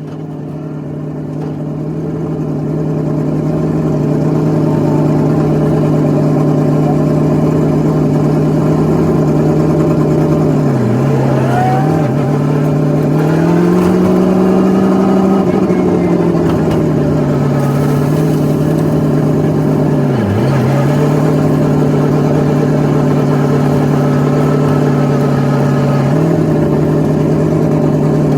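High-horsepower drift car's engine held at high, nearly steady revs, growing louder over the first few seconds. Its pitch dips briefly about eleven, twelve and twenty seconds in and rises for a couple of seconds around fourteen seconds.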